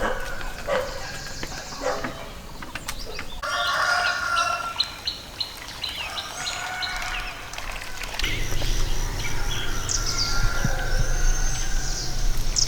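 Small birds chirping in short, high, repeated calls. A low steady hum comes in about two-thirds of the way through.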